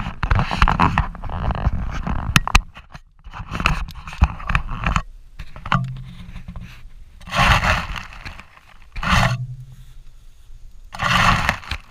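Irregular scraping and rustling with sharp clicks, like brush and branches being handled and dragged, with three louder scraping bursts in the second half.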